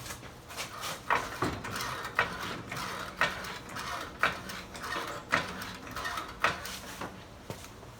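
Hand tool, most like a ratchet wrench, being worked on a suspension fastener in repeated strokes: a sharp click about once a second with scratchy ratcheting between.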